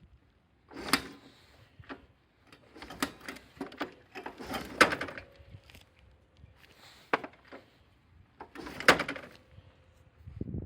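Irregular knocks and clanks of hard objects being handled and set down, with sharp strikes about a second in and near the middle and end. After the last two strikes a short ringing tone hangs on, as from a metal piece.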